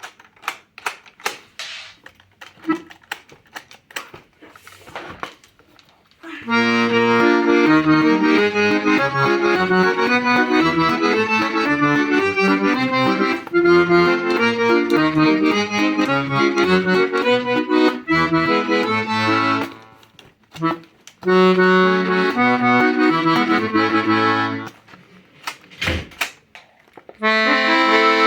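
Hohner Contessa 3M accordion being played: chords and melody with bass, in phrases that stop twice for a second or two. It opens with about six seconds of sharp clicks and knocks before the first notes.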